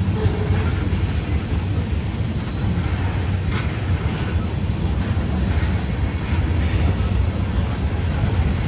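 Freight train of loaded ethanol tank cars rolling past at close range: a steady low rumble of steel wheels on the rails.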